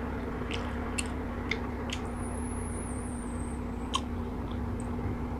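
Close-miked chewing and wet mouth sounds: a handful of sharp little clicks and smacks, the loudest near the end, over a steady low hum.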